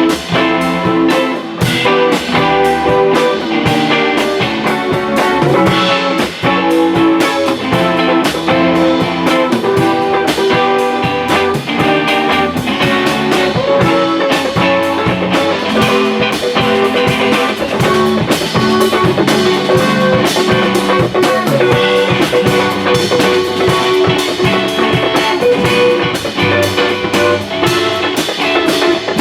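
Live rock band playing an instrumental passage: guitar over bass and drum kit, without singing.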